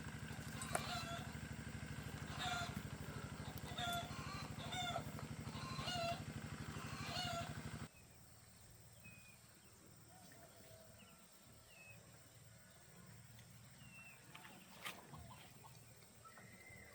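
Tractor engine running with a fast, steady firing beat, cutting off abruptly about eight seconds in. Fowl call repeatedly over it, and a few faint calls carry on after it stops.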